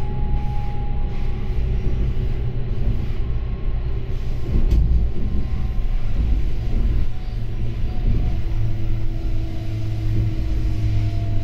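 SBB Stadler GTW (RABe 520) train running: a steady rumble with a thin whine that drifts slowly in pitch, one tone falling early on and another rising from about two-thirds of the way in.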